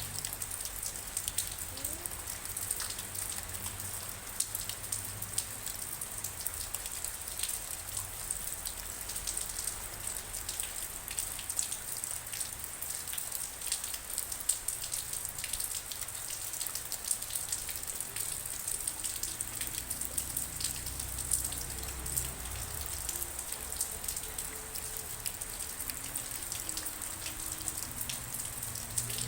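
Rain falling steadily, a dense patter of many separate drops striking close by.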